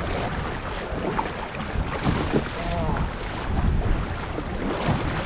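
Strong gusty wind buffeting the microphone, a dense uneven rumble.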